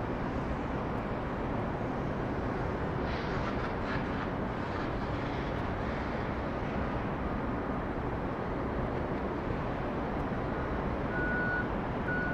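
Steady roar of airport jet noise, with a ground vehicle's reversing beeper starting near the end, beeping roughly once a second.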